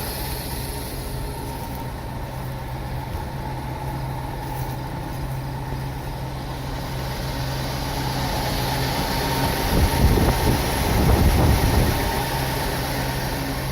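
A 1976 International Harvester grain truck's engine idles steadily. About three-quarters of the way through it grows louder and rougher for a couple of seconds, then settles back.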